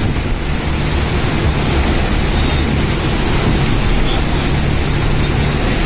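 Heavy rain pouring onto standing floodwater: a loud, steady rushing noise, with a low rumble underneath.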